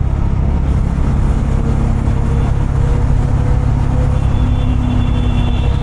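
Bajaj Dominar 250's single-cylinder engine and exhaust running steadily while riding in traffic, a dense low rumble.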